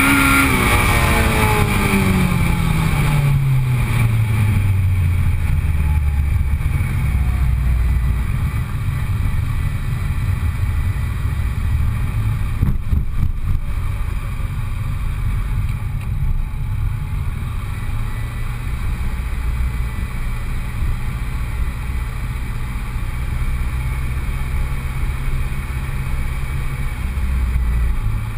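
Supercharged Honda Civic Si's 2.0-litre four-cylinder engine coming off the throttle, its revs falling steeply over the first few seconds as the car slows at the end of an autocross run. It then runs at low revs as a steady low rumble, with road and wind noise, while the car rolls along slowly.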